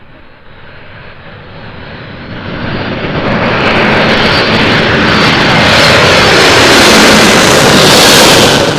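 Jet engines of a Boeing C-17A Globemaster III growing steadily louder as the aircraft comes close, a loud rushing noise with a thin high whine over it. The sound drops sharply at the very end.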